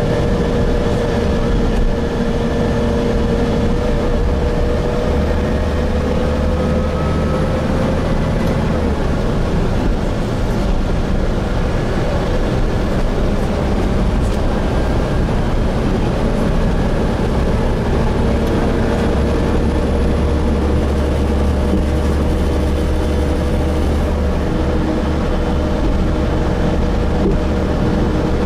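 Gillig Phantom transit bus heard from inside the cabin while under way: a steady drone of engine, Voith-transmission drivetrain and road noise, with a tone that drifts slightly in pitch. A deep hum swells for a few seconds about five seconds in and again for several seconds from about eighteen seconds in.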